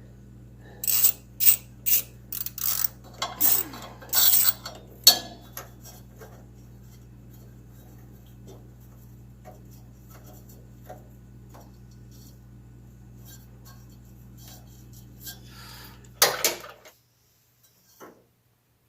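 Hand tools clinking and clattering against the metal parts of a 1977 MTD-built lawn tractor: a quick run of sharp knocks in the first five seconds, then occasional light clicks, and a louder clatter near the end. A steady low hum runs underneath and stops just after that last clatter.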